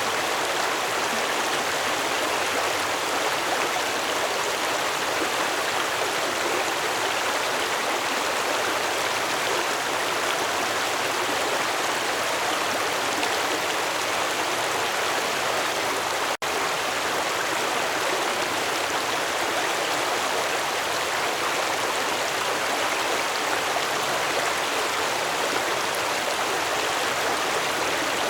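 Stream water flowing steadily, an even rushing and babbling with no change in force. It breaks off for a split second about sixteen seconds in.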